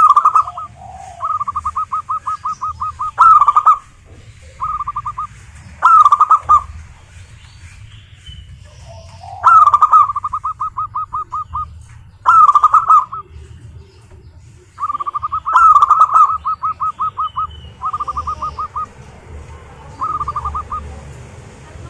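Zebra doves (perkutut) singing: phrases that start with a loud coo and run into a fast series of short, even notes, repeated every few seconds, some louder and some quieter. A low steady rumble runs underneath.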